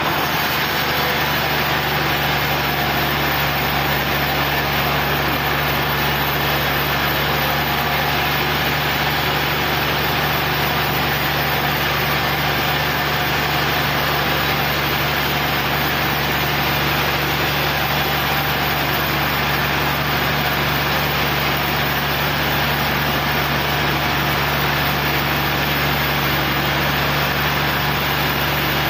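Sawmill engine running steadily at an even speed, with no change in pitch or load.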